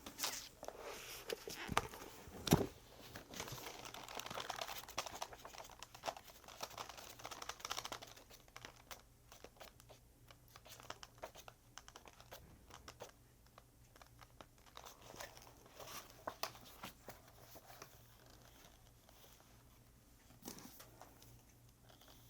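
Paper rustling and crinkling with scattered light taps and clicks, busiest in the first eight seconds and fainter after.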